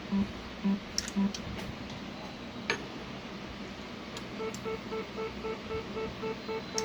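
Electronic beeping from an Ethicon harmonic generator: a few lower beeps about twice a second in the first second or so, then from about halfway a faster run of higher beeps, about four a second. A few sharp clicks fall between them.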